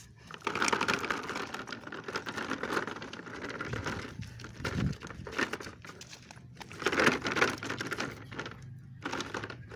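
Plastic toy truck being pulled along the floor, its wheels and body rattling and clattering in uneven stretches, loudest in the first few seconds and again about seven seconds in.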